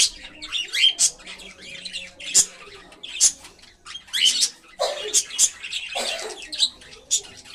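Pet cockatiels chirping and squawking, a rapid string of short, high, sharp calls several a second, with two fuller, harsher squawks about five and six seconds in.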